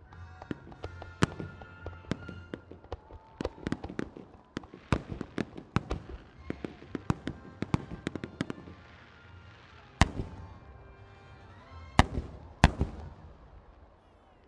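Aerial fireworks bursting in quick succession over music from loudspeakers, then three loud single bangs near the end that echo away.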